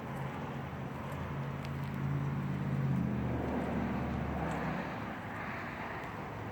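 A motor vehicle engine running, growing louder about two to three seconds in and then fading away, as if it passes by.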